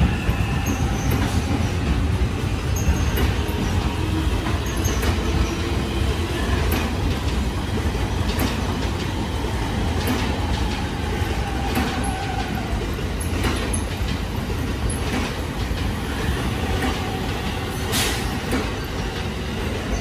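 A green-and-orange JR commuter train running past alongside the platform: a steady heavy rumble of steel wheels on rail, with scattered sharp clicks and a little wheel squeal.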